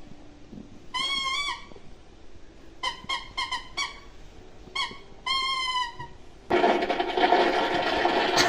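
Seven or eight short, high squeaks, some in quick runs, then a toilet flushing, starting with a rush about two-thirds of the way in and running on.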